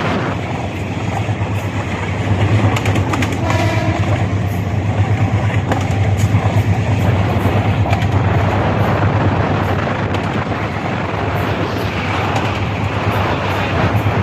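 A train running on the rails: a loud, steady rumble with a rhythmic clatter of wheels passing over the rail joints.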